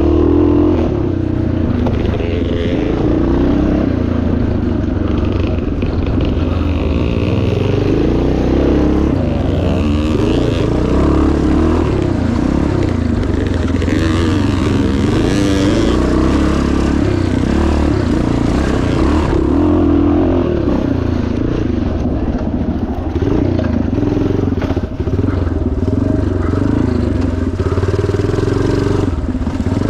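1977 Yamaha TT500's single-cylinder four-stroke engine running hard, its pitch rising and falling continuously as the throttle is opened and closed, with a brief dip about 25 seconds in.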